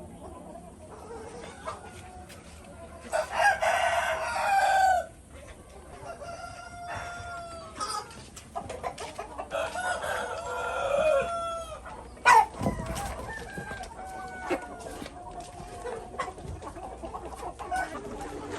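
A flock of chickens clucking, with two long loud calls, likely a rooster crowing, about three seconds in and again around ten seconds in. A single sharp knock sounds about twelve seconds in.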